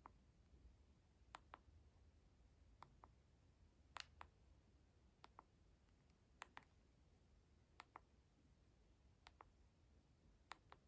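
Faint, sharp clicks, mostly in close pairs, repeating about every second and a third.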